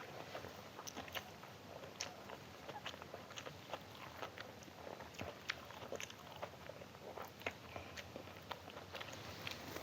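Close-up eating sounds: chewing and biting spicy chicken liver and gizzard with stir-fried water spinach, with many small irregular wet clicks and smacks.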